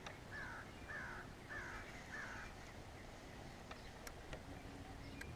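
A bird calling four times in quick succession, each short harsh call falling in pitch, faint.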